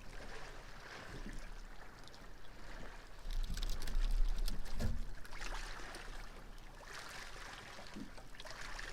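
Wind buffeting the microphone over water lapping against a boat's hull, with a stronger gust from about three seconds in and a light knock near five seconds.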